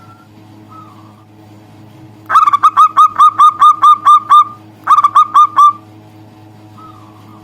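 Zebra dove (perkutut) calling: a fast run of about nine short, sharp notes, each dipping in pitch, then a brief pause and four more. A few faint, soft coo-like notes come before and after the runs.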